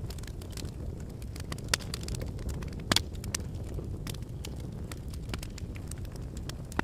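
Wood fire burning in a fireplace: logs crackling and popping with irregular sharp snaps over a steady low rumble of flame, one louder pop about three seconds in.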